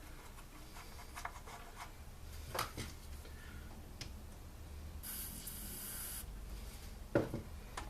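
A hiss of aerosol WD-40 sprayed onto a stuck bolt, about a second long, coming about five seconds in. Light clicks of tools and parts being handled come before and after it.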